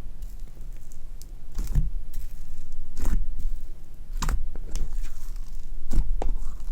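Fluffy slime being squished and stretched by hand, giving a string of soft crackling pops and squelches about every second or so, with a few short squeaks.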